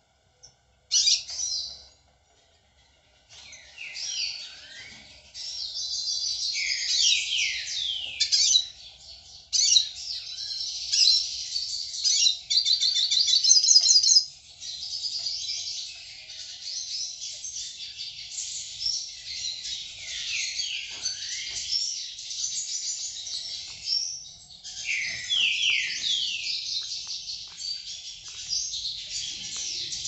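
Several songbirds chirping and singing over one another, with quick downward-sliding whistled notes and a fast trill about halfway through. The calling stops briefly about two seconds in.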